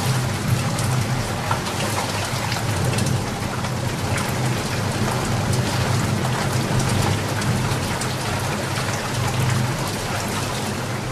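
Steady heavy rain falling, with dense patter of individual drops and a low rumble underneath.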